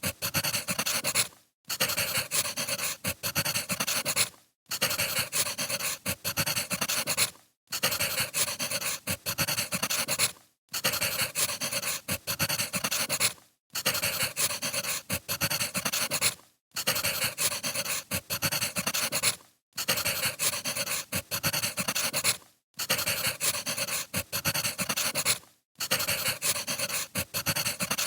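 Wood fire crackling: a short recording repeated about every three seconds, with a brief drop-out between repeats.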